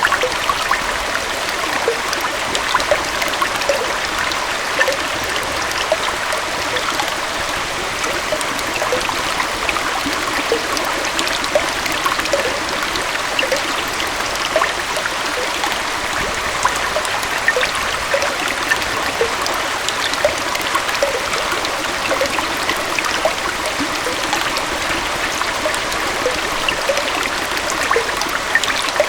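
A gentle waterfall and stream flowing steadily: a continuous rush of water, flecked throughout with small gurgles and splashes.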